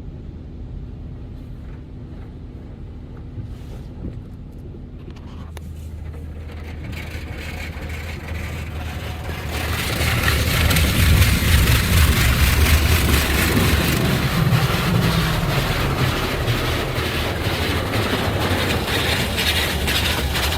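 Coleman Hanna Water Wizard 2.0 touchless car wash heard from inside the car: a low hum from the machine at first, then about ten seconds in a loud, steady rush of high-pressure water spray hitting the car over the machine's hum.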